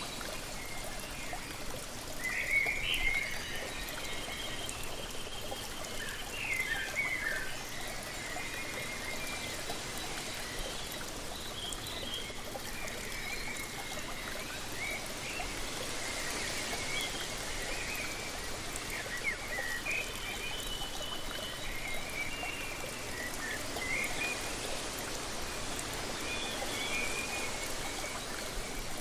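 Waterfall water splashing and rushing steadily, with small birds chirping and warbling in short phrases throughout.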